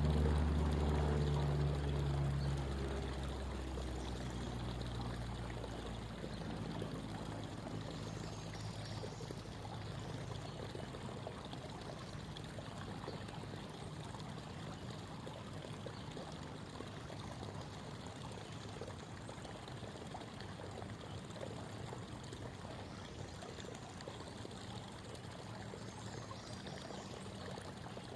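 Creek water babbling in a steady rush. At the start a low engine hum fades away over the first few seconds.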